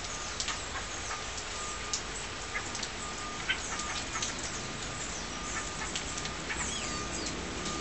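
Many birds chirping at once, a dense run of short, sharp overlapping calls with a thin held note coming and going.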